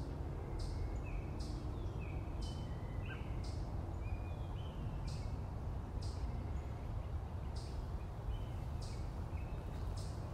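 Birds chirping, with short high calls about once a second over a steady low rumble.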